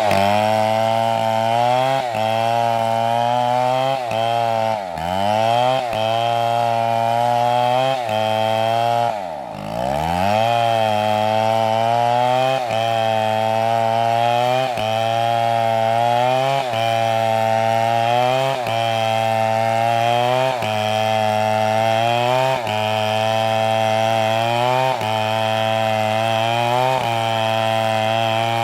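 Two-stroke chainsaw running hard while cutting wood. Its engine note dips briefly about every two seconds, with two deep falls in pitch that pick back up, about five and nine and a half seconds in.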